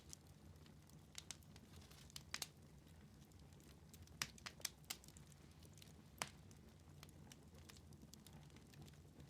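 Wood fire burning in a fireplace, crackling quietly with scattered sharp pops, several close together around the middle, over a faint low rumble.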